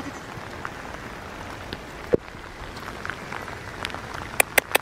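Steady rain falling, an even hiss, with a single sharp tap about two seconds in and a quick run of sharp taps near the end.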